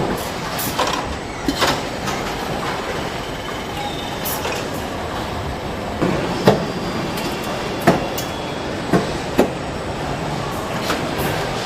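A vehicle running: a steady noise with scattered sharp knocks and clicks, the loudest about six and a half and eight seconds in.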